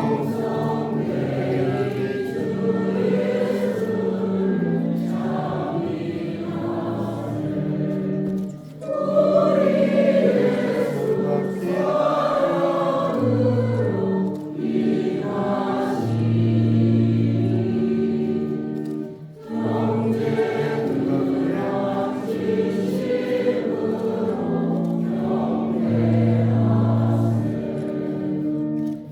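Church choir singing a hymn over long, steady held bass notes. There are brief breaks between phrases about nine and nineteen seconds in.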